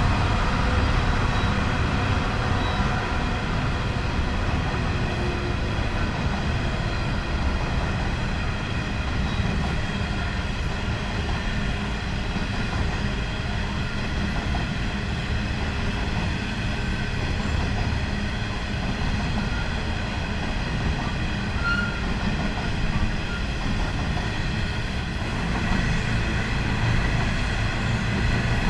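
Coal train rolling past: a steady, continuous rumble of wagon wheels on the rails, with faint steady high tones running above it.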